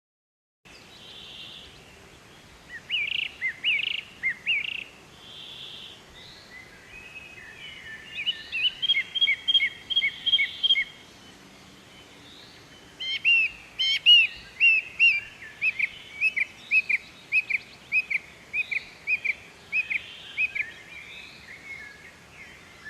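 Small birds chirping and twittering in quick runs of short high notes, coming in several bouts with brief pauses between, the busiest stretch in the second half.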